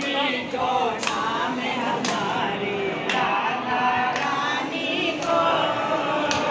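A group of voices singing together, devotional temple singing. A sharp clap-like beat keeps time about once a second.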